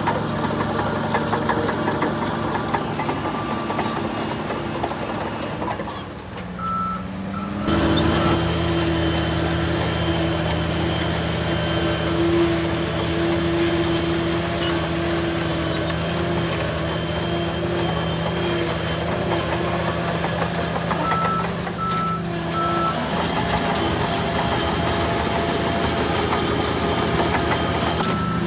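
Bulldozer diesel engine running steadily. The engine dips and then revs up about seven seconds in. A reversing alarm beeps briefly there, and again three times about twenty-one seconds in.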